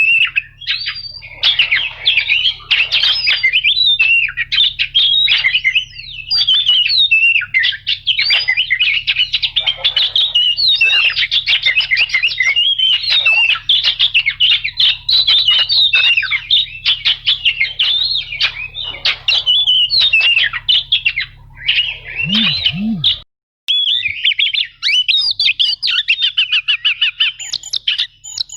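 Oriental magpie-robin (kacer) singing a long, continuous run of rapid, varied whistles and chattering trills, with a brief break about 23 seconds in.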